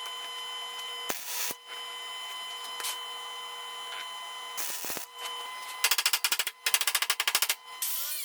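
110-volt gas-shielded MIG welder laying short stitches of weld on a steel mower-deck bracket: brief bursts about a second in and again near five seconds, then two longer runs of rapid crackling near the end.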